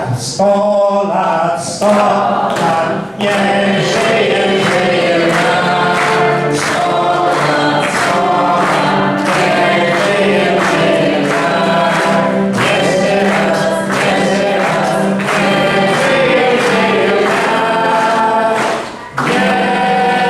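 A choir or congregation singing a Catholic Mass hymn, with a steady low note held underneath. There is a brief break between phrases near the end.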